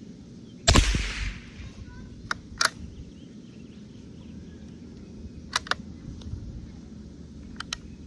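A single shot from a J.C. Higgins single-shot .22 Long Rifle rifle firing a CCI Mini-Mag round, about a second in, with a short ringing tail. It is followed by three pairs of short metallic clicks from the rifle's action being worked.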